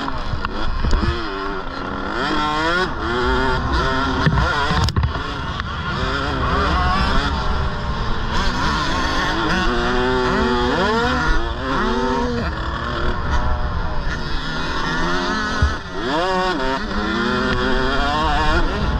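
Several KTM 65 two-stroke minibike engines revving, their pitch repeatedly rising and falling as they accelerate and back off.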